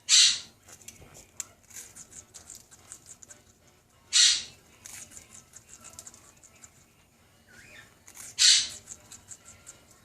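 Quaker parrot eating a Ritz cracker: three loud, harsh bursts about four seconds apart, with quick soft clicks and crunches between them.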